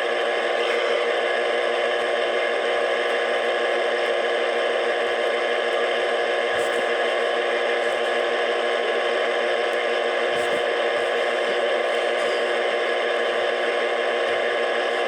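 Steady radio static: an even hiss at constant level, with a couple of faint clicks in the middle.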